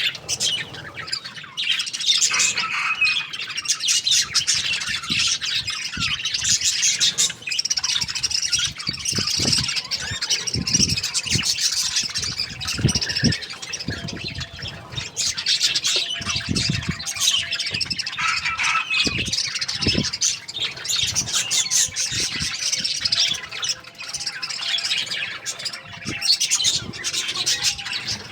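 Many small birds chirping and squawking at once in a continuous high chatter, with scattered short low knocks.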